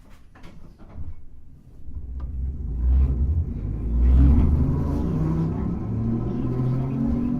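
Hankai Tramway type 351 streetcar pulling away and gathering speed, heard on board. After a quiet start its traction motors come up in a low hum over the rumble of the wheels, getting louder about two seconds in.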